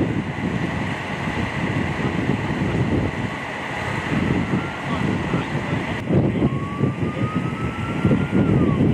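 Wind buffeting the microphone with a gusty rumble. A faint steady high whine runs underneath, and a thin tone rises slowly in the second half, then drops away near the end.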